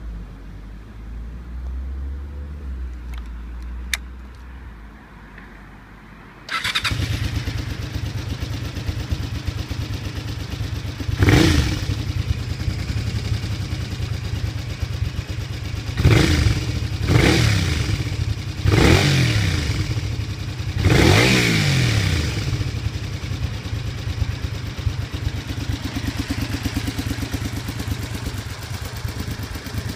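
Honda VT250 Spada's 250 cc V-twin, breathing through a Moriwaki Mark II exhaust, being started: after a low rumble and a click about four seconds in, the engine catches suddenly and settles into a steady idle. The throttle is blipped five times, each rev rising and falling quickly, before it returns to idle.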